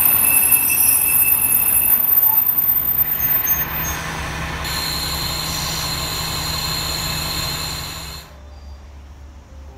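Train running along the track past the platform and moving away, with thin high wheel squeal during the first couple of seconds. The running noise then settles lower and steadier, and cuts off abruptly about eight seconds in.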